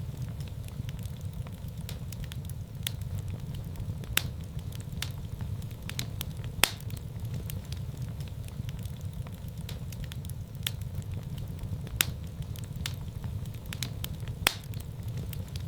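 Fire burning in a fireplace: a steady low rumble of flames with sharp crackles and pops scattered throughout, the loudest about four, six and a half, twelve and fourteen and a half seconds in.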